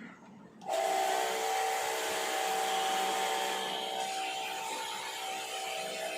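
Electric pressure washer switched on just under a second in, its motor running steadily with a whine and a spray hiss, used to wash an air conditioner's evaporator coil.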